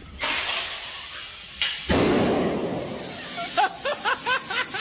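A hose on the floor hissing as air rushes out, then a sudden, louder blast about two seconds in that keeps on rushing.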